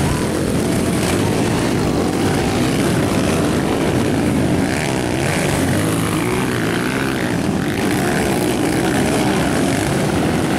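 Several Honda CG single-cylinder four-stroke motorcycles racing together, their engines revving up and down as they accelerate and back off.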